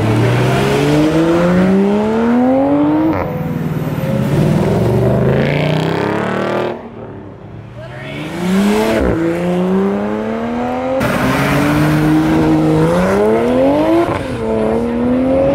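Toyota GR Supra sports cars accelerating hard past and away, each engine revving up in rising sweeps and dropping back at each gear change, in several separate pulls.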